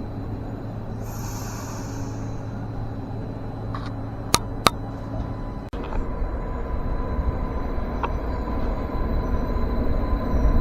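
Railway station ambience with a steady low hum and two sharp clicks in quick succession about four seconds in. Then the low rumble of an approaching train builds steadily louder, with a faint steady whine.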